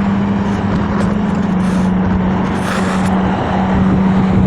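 Sports car engine running at steady revs: a loud, constant exhaust drone over a low rumble.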